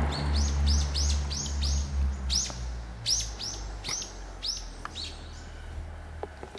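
A small bird chirping over and over, short high notes about three a second, which stop about five seconds in. Under it runs a low steady hum that fades away after about three seconds.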